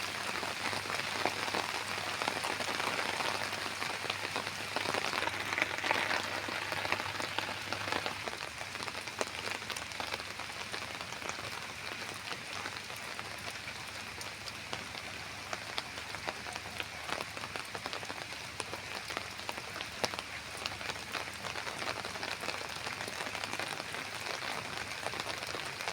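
Steady rain falling, with many individual drops pattering on surfaces; a little heavier in the first several seconds, then easing slightly.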